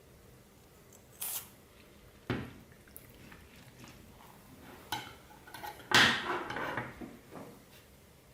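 Clear slime with plastic beads mixed in being squished and worked by hand, in several separate crackly squelches. The longest and loudest comes about six seconds in.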